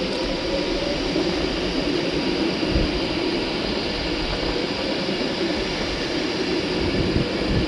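Class 390 Pendolino electric train pulling away from the platform, a steady rumble of wheels on rail and traction equipment.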